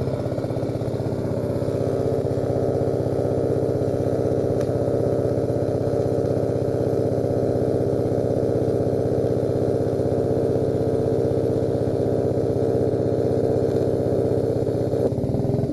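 Blue Star engine-drive welder running steadily with an even mechanical hum.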